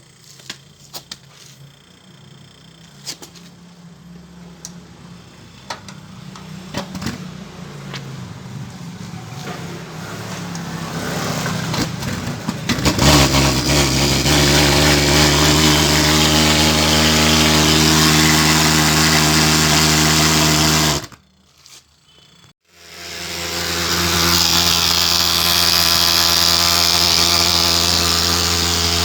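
Pulse-jet engine of a thermal fogging machine being started with sharp clicks from an electric stove igniter, used in place of its dead ignition coil, over a rising hiss. The engine catches a little under halfway through and runs with a loud, steady buzz. Near the end it cuts out abruptly, then starts again about two seconds later and keeps running.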